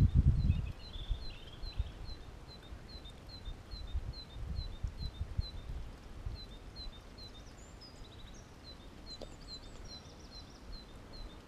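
A small bird repeating one short, high call note over and over, about two or three a second, with a brief pause midway. A few other faint bird notes come in during the second half, over an uneven low rumble.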